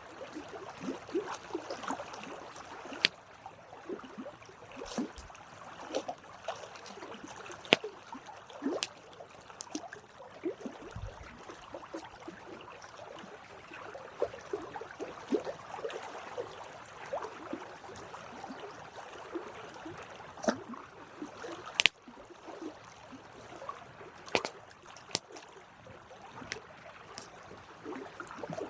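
Campfire burning, with continuous irregular crackling and many small pops, and an occasional louder sharp snap from the burning wood.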